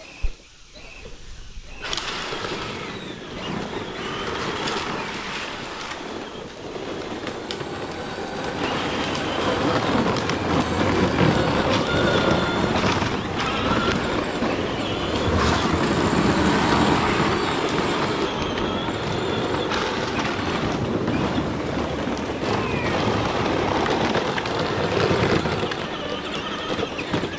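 Children's ride-on toy tractor driving over the ground: a steady rumbling noise of its wheels and motor, starting about two seconds in.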